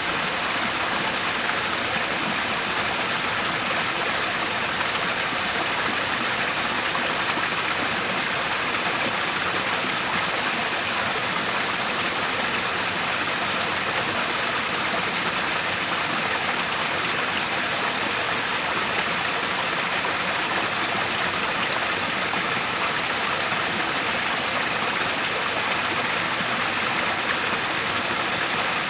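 Waterfall and rushing stream water, a steady even rush with no breaks.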